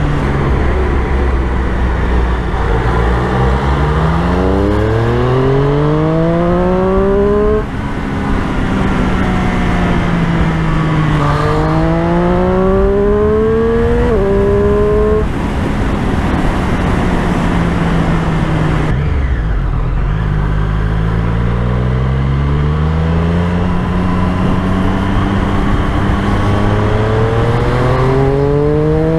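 Triumph Street Triple 765's three-cylinder engine under way, pulling up through the revs: the pitch climbs, drops sharply at gear changes about seven and fourteen seconds in, holds steady for a few seconds, falls again near the twenty-second mark, then climbs once more toward the end.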